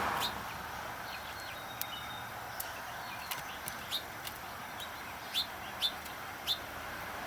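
Small birds chirping: short, high chirps repeated at irregular intervals, a few louder ones in the second half, over a steady background noise.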